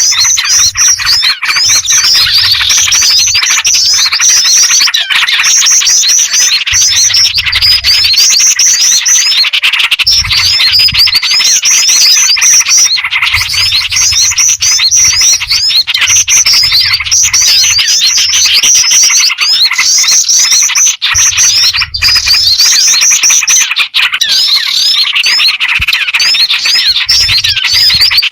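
Bird-luring track: a dense, loud chorus of small songbirds chirping and twittering nonstop, mixing black-winged flycatcher-shrike (jingjing batu) calls with small-bird chatter and yellow-vented bulbul (trucukan) calls. Low rumbles come and go under the calls.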